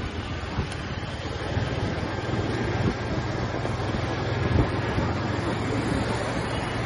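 TVS Apache RTR 180's single-cylinder four-stroke engine and exhaust running steadily while the motorcycle is ridden, with wind rushing over the microphone. The engine is loudest just before the start and settles to a lower, even level.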